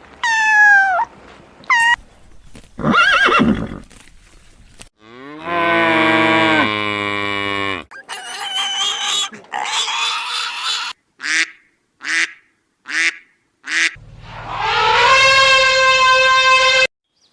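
A string of different farm-animal calls cut one after another, with abrupt breaks between them: high falling cries near the start, a long low call in the middle, a few short calls, and a long, higher bleat-like call near the end.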